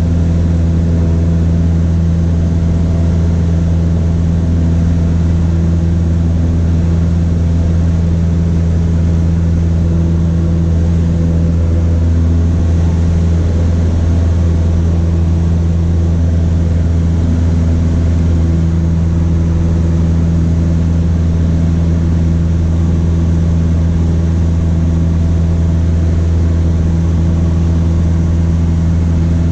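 Cessna 152's four-cylinder Lycoming O-235 engine and propeller droning steadily, a deep even hum with no change in power.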